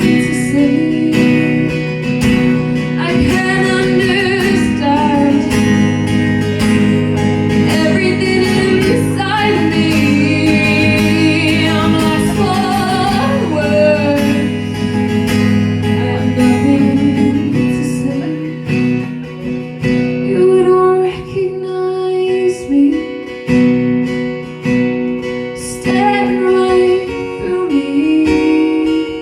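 A song on acoustic guitar with a woman singing, her voice wavering with vibrato over full, sustained chords. About two thirds of the way through the fuller sound drops away and the guitar goes on with lighter, picked notes.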